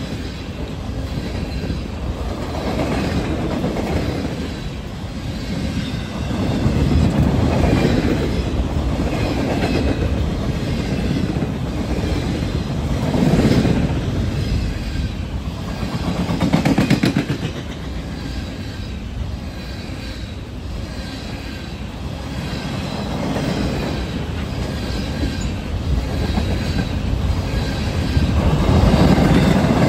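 Freight train of flatcars loaded with wind turbine blades rolling past close by: steel wheels rumbling and clattering on the rails, the sound swelling and easing every few seconds as the cars go by.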